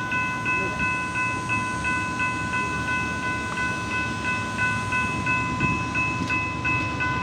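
Electronic grade-crossing warning bell ringing about three times a second over the low rumble of a freight train rolling past.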